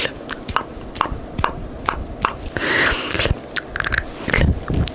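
Close-miked ASMR mouth sounds: sharp, wet tongue and lip clicks, two or three a second, mimicking clips snapping shut. A short breathy hiss comes about halfway through.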